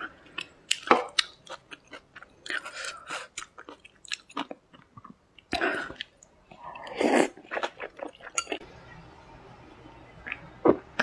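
A person biting into and chewing soft boiled dumplings, close to the mic, with wet mouth clicks and smacks in clusters. These die down about eight and a half seconds in.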